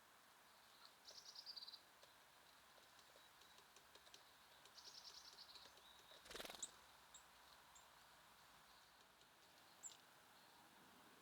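Small wild songbirds calling faintly: two quick trills of rapidly repeated high notes, a single sharp knock about six seconds in, then a few short, very high chirps.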